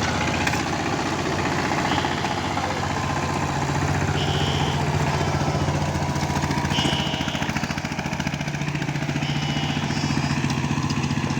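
Single-cylinder diesel engine of a 12-horsepower Saifeng power tiller, running steadily with a dense, even chugging while it ploughs wet low-lying ground.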